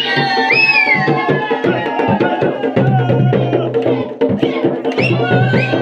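Garhwali folk music of a mandan: rapid, dense drumming with a high melody that slides in pitch over it, swelling again near the end.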